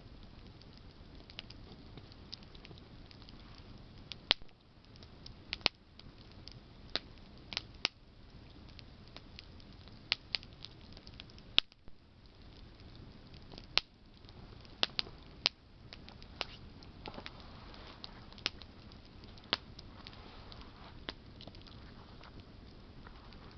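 Wood campfire crackling: sharp, irregular pops from burning branches over a low, steady hiss of the flames.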